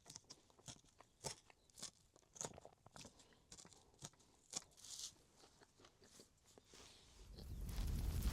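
Crunchy food being chewed close to the microphone, a crunch about every half second. Near the end a loud low rumbling noise rises and takes over.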